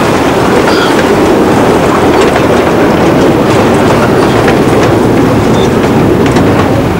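Miniature railway train running along the track: a steady loud rumble with clicks of the wheels over the rail joints.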